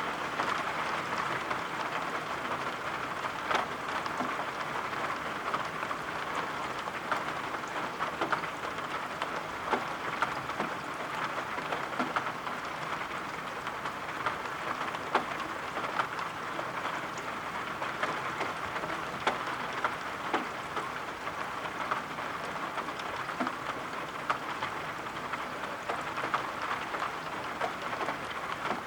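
Steady rain falling, an even hiss with scattered sharp ticks and taps throughout.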